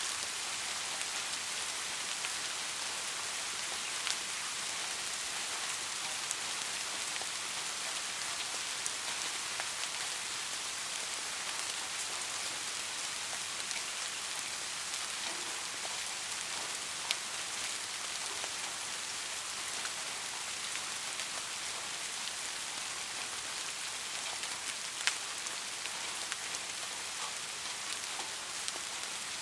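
Steady rain falling, a constant hiss with a few sharper drop ticks standing out now and then.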